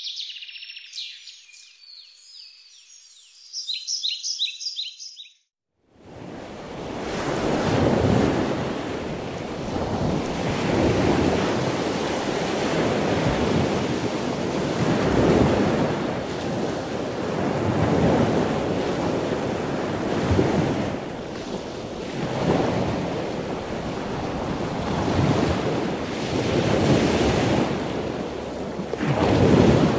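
Birds chirping and singing for the first five seconds, cutting off abruptly. After a short gap, waves wash onto a shore, swelling and ebbing about every three seconds.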